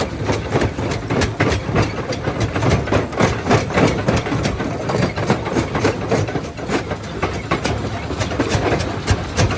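Quarry jaw crusher crushing rock: a steady low machine hum under rapid, irregular sharp cracks and knocks of stone, several a second.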